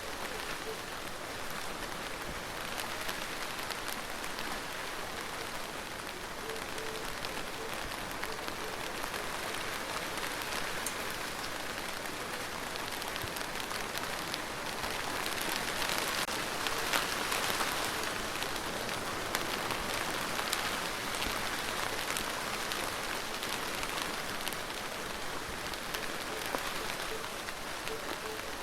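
Steady rain falling on a surface, with single drops heard as fine ticks in the wash. It grows heavier and louder for a few seconds past the middle, then eases back.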